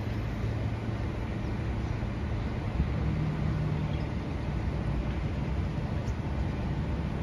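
Steady low rumble of a distant SMRT C151 electric train at an elevated station, mixed with traffic noise, with a steady low hum.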